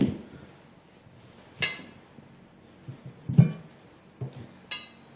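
Tire bar clanking against the wheel rim while prying a truck tire's bead over it by hand: a few separate metallic knocks, some with a short ring, the loudest about three and a half seconds in.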